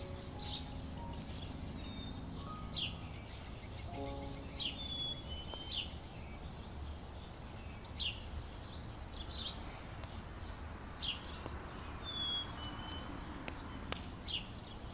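A bird calling again and again: short, sharp downward chirps every second or two, some followed by a brief higher note, over steady low background noise.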